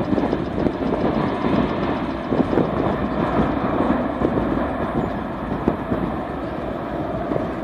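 Jet takeoff noise from an Airbus A330's Rolls-Royce Trent 700 engines at takeoff power: a heavy, crackling rumble, easing slightly as the aircraft moves away.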